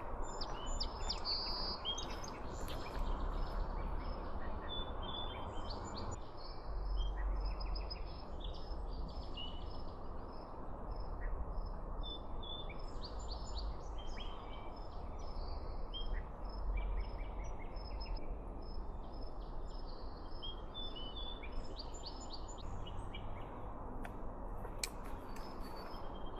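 Many small birds chirping and calling in quick, scattered short notes, over a steady low rumble of outdoor background noise on the camera's onboard microphones.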